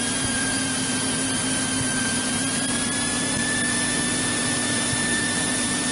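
Steady cabin noise of a 1963 Cessna 172E in flight: its Continental O-300 six-cylinder engine and propeller running at a constant power setting.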